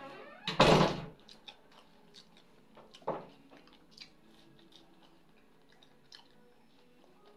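Close mouth sounds of eating fried fish by hand: quiet chewing and small lip clicks. A loud, brief bump about half a second in and a smaller one about three seconds in.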